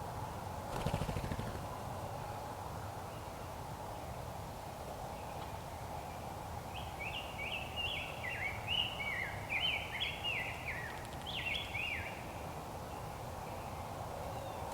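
A bird calling a rapid run of short chirping notes for about five seconds, over a steady low background hum; a brief thump about a second in.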